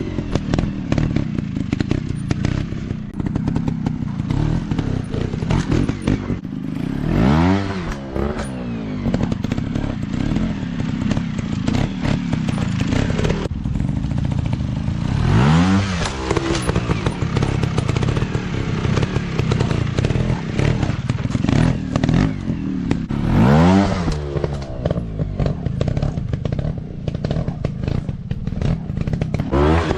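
Dirt bike engine running hard, its revs swinging up and back down in pitch about every eight seconds, over steady rattling and clatter.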